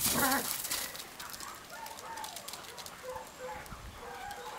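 Crunching on gravel in the first second, then faint birds chirping in short whistled notes.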